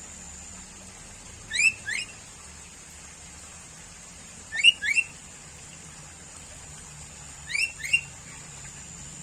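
Sooty-headed bulbul calling: a short phrase of two quick rising notes, repeated three times about every three seconds, over a faint steady high-pitched hiss.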